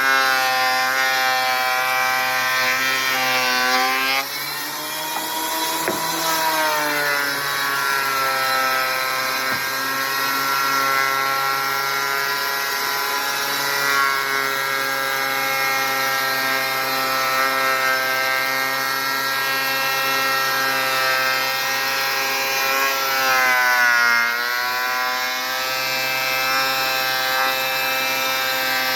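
Electric thickness planer running with a steady motor whine as a rough-sawn board feeds through. The pitch shifts as the board takes load a few seconds in and dips again near the end.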